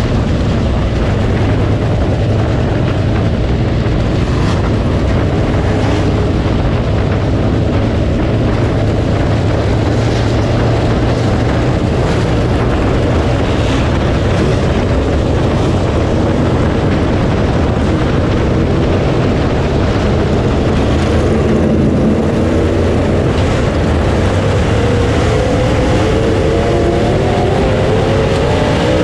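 Dirt late model race car engine running hard at speed in a steady, loud din, its pitch climbing over the last few seconds as it accelerates.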